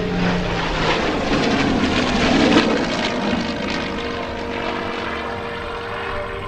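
The P-51D Mustang and F-22 Raptor of the USAF Heritage Flight pass in formation. Their engine noise swells to a peak about two and a half seconds in and then fades, with music playing underneath.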